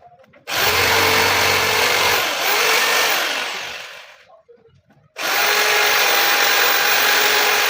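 A handheld power tool run twice, the first time for about two seconds and the second for about two and a half. Each time it winds down with a falling whine when released.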